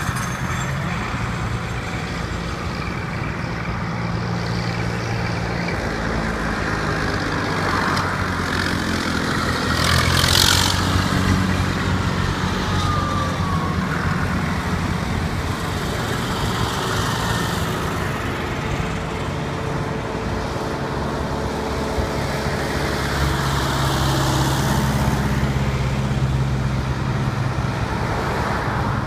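Diesel tractor engines running as tractors drive past one after another, their engine notes changing as each one comes and goes. There is a short, loud burst of hissing noise about ten seconds in.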